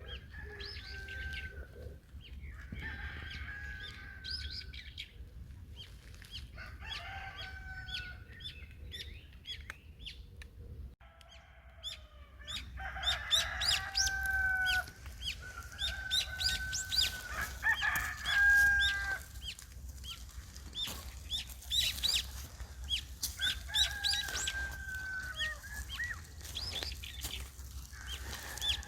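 Chickens calling with repeated drawn-out, crowing-like calls, several overlapping in the middle, while small birds chirp quickly throughout.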